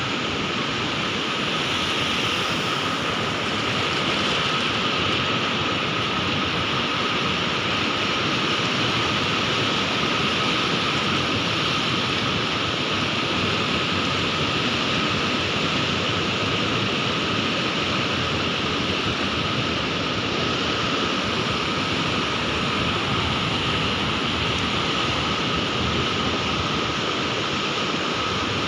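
Sea surf: a steady, unbroken wash of waves with no distinct swells, and a faint steady high tone running under it.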